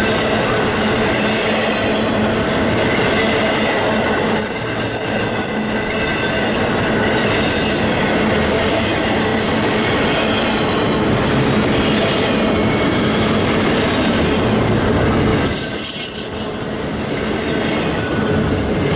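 Railroad cars rolling past, steel wheels squealing against the rails on and off over a steady rumble; the noise dips briefly about three-quarters of the way through.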